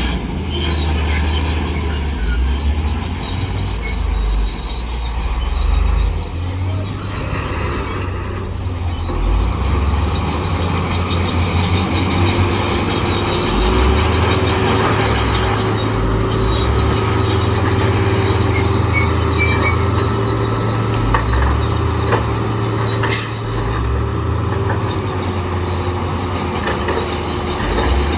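Crawler bulldozer working: its diesel engine runs with a heavy, steady low rumble while the steel tracks squeal on and off. A steady droning tone comes in about halfway through.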